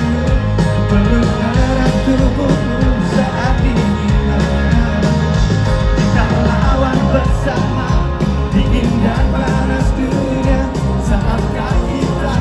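Live pop-rock band playing loudly through a festival PA, bass, drums and guitars, with some singing or crowd voices over it.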